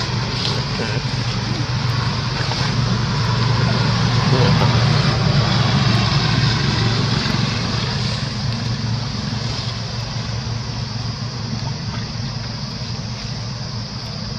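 A motor vehicle's engine running nearby, growing louder toward the middle and then slowly fading, as if passing by.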